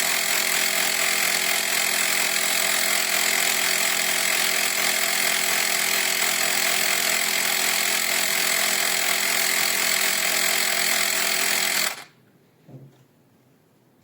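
Small portable electric tyre compressor running with a steady buzzing whine, then switching off abruptly about twelve seconds in, followed by a faint knock.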